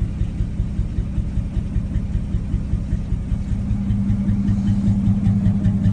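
1967 Dodge D100 pickup's 225 slant six idling steadily with an even low pulse, growing a little louder about halfway through.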